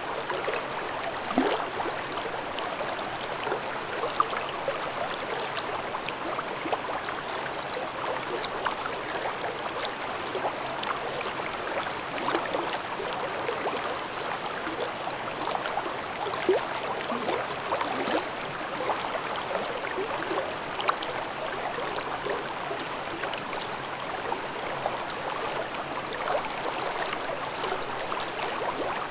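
Mountain stream babbling steadily over rocks, a continuous rush of water with many small gurgles and splashes.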